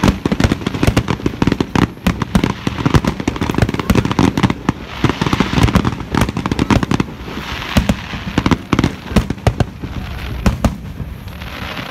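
Fireworks display bursting in a dense run of bangs, several a second, with a few stretches of crackling between them.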